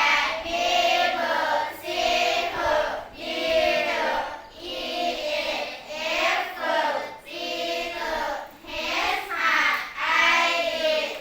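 A group of children's voices chanting phonics sounds in unison, a sung phrase about once a second.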